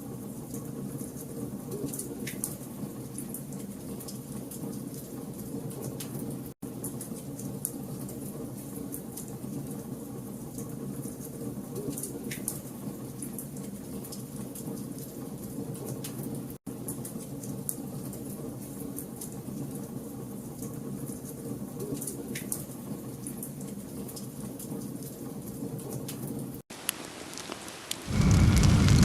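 Wood fire crackling: a steady low rumble with sparse sharp pops, broken by brief dropouts about every ten seconds. About a second before the end, a much louder, deeper fire roar cuts in.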